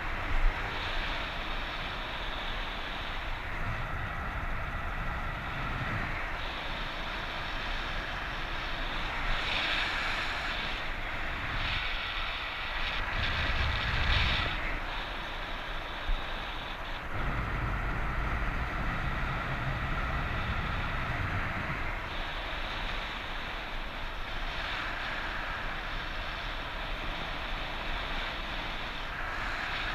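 Wind rushing over the microphone of a paraglider pilot in flight in strong wind. It is a steady hiss with gusty low buffeting that swells several times.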